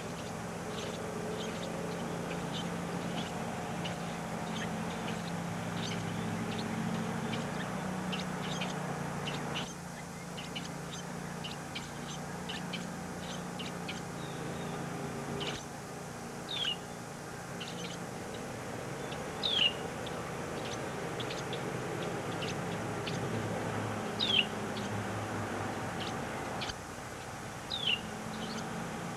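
Baby birds chirping in the nest: many short, high peeps throughout, with a few louder chirps that slide downward in the second half. A steady low hum runs underneath.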